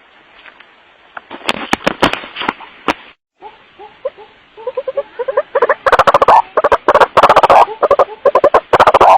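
White-breasted waterhen's 'wak-wak' call: a few scattered clicks, then from about four seconds a fast run of repeated croaking notes building up, loud and distorted from clipping in the second half.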